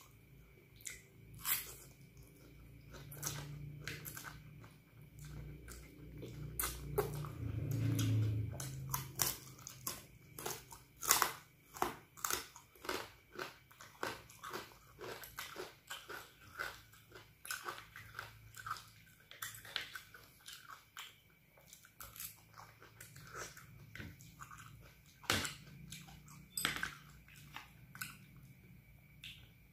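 Close-up eating sounds of fried instant noodles with crisp rempeyek peanut crackers: chewing with a run of sharp crunches, about two a second through the middle stretch.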